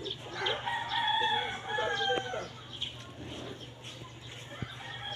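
A rooster crowing once, one long call of about two seconds starting about half a second in.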